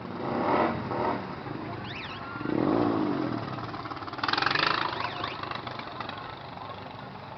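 Motorcycle engines running and being revved, the sound swelling and falling back several times as the pitch rises and drops.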